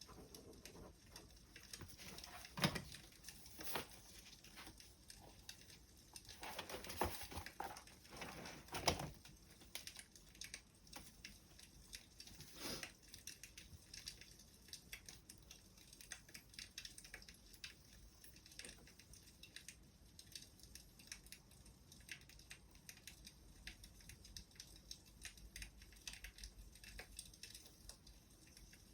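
Burning firewood crackling faintly: a dense, irregular patter of small pops, with a few louder snaps in the first half.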